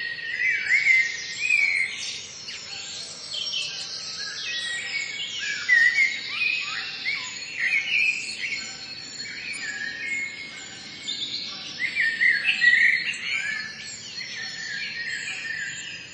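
Songbirds singing: many short, overlapping chirps and whistled phrases going on without a break.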